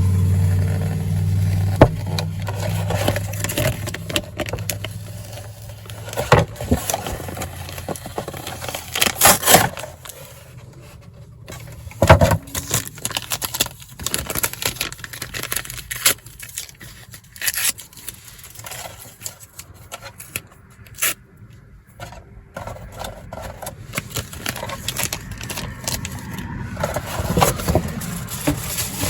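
Handling of a traveler's notebook and its paper inserts: rustling and scraping with scattered sharp clicks and taps, the loudest click about two seconds in. A low hum at the start fades away over the first few seconds.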